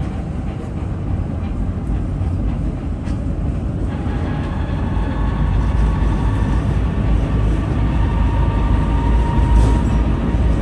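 Tram running along the track with a steady low rumble; a faint whine joins about four seconds in.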